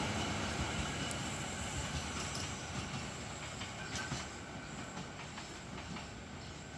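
Dharmawangsa passenger train with New Generation coaches running on the rails and fading away, wheels clicking over rail joints as it moves off.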